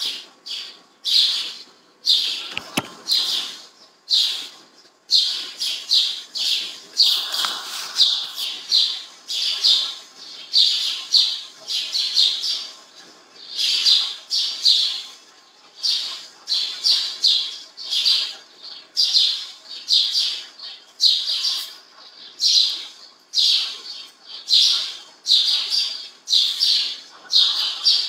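A bird chirping over and over: short, high chirps coming about twice a second, with a few sparser chirps in the first seconds.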